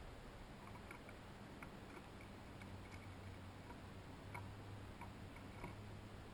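Faint, irregular ticks and taps at a seed feeder, of the kind made by birds or chipmunks pecking at and cracking seed, about seven in a few seconds over a steady low hum.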